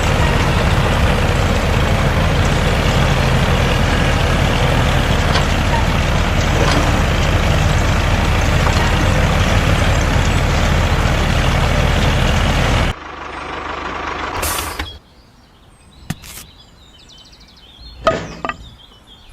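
A mini tractor's engine running steadily, cutting off abruptly about thirteen seconds in; a quiet stretch with a few clicks follows.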